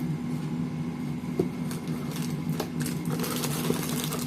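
Packaging being opened by hand: scattered clicks and rustles of plastic and cardboard, thickening near the end, over a steady low hum.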